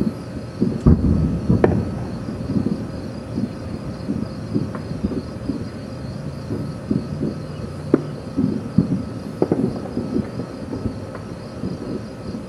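Distant aerial fireworks: a continuous low rumble of shell bursts echoing across the valley, with sharper reports about a second in, a little later, and again around the eight- and nine-and-a-half-second marks. Crickets chirp steadily underneath.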